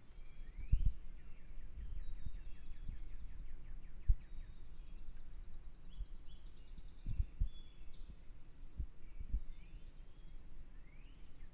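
Small songbirds chirping: repeated rapid high trills, each about half a second to a second long, mixed with short down-slurred notes. Several dull low thumps, the loudest about four seconds in, sound over the birdsong.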